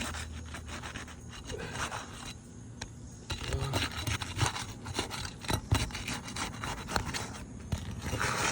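Asphalt roof shingle tabs being broken loose from their sealant strips: irregular scraping and crackling, with a brief lull about two and a half seconds in.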